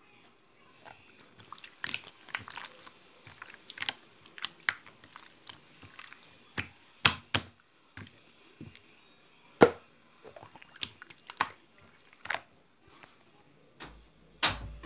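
Slime being squished and played with by hand, giving irregular sharp clicks and pops. The loudest pops come about seven and nine and a half seconds in.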